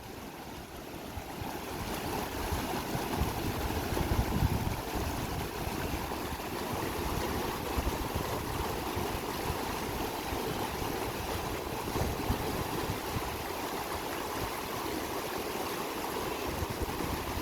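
Monsoon-swollen mountain river rushing steadily, a constant noise of flowing water.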